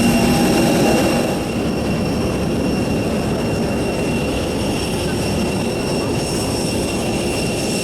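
Steady cabin noise inside an Airbus A321 airliner before departure: a continuous rushing hum with a thin, high whine over it, dropping slightly about a second in.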